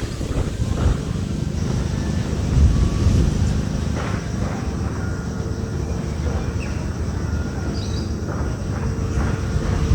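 Strong wind buffeting the microphone: a loud, gusting low rumble that swells about two and a half seconds in. A few faint, short, high chirps sound above it.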